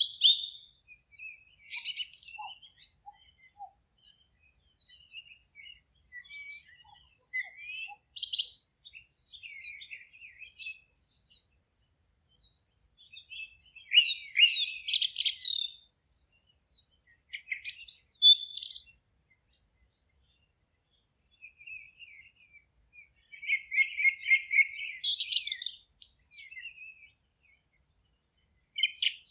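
Forest songbirds singing in short chirping and warbling phrases every few seconds, with quiet gaps between them and a fast trill of repeated notes about two-thirds of the way through.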